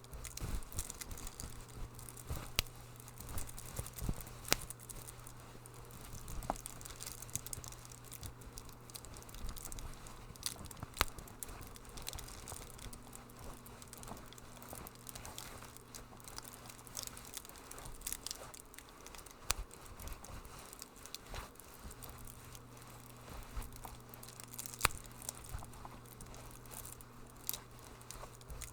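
Wood fire in a fireplace crackling, with frequent irregular sharp pops and snaps over a low steady hum.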